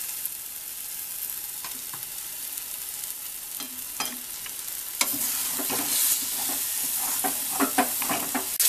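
Onion-spice masala sizzling as it fries in oil and ghee in a kadhai, with a spatula scraping and knocking against the pan as it is stirred. The sizzle gets louder and the stirring strokes come more often from about halfway in.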